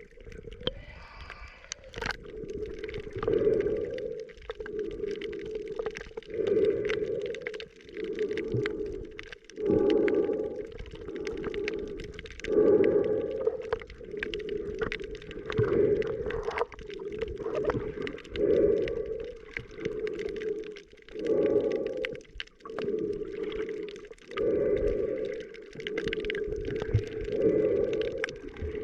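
Muffled underwater recording of a snorkeler breathing through a snorkel: a rushing swell about every three seconds, with small clicks and bubbling between.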